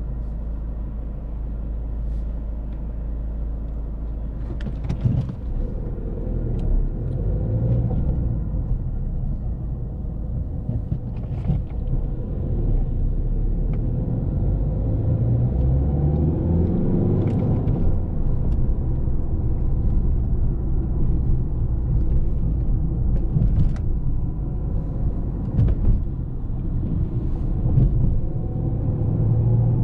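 A 2008 Volvo S40 1.6D's turbocharged four-cylinder diesel engine and road rumble while driving. The engine note rises in pitch about halfway through as the car accelerates, with a few short knocks along the way.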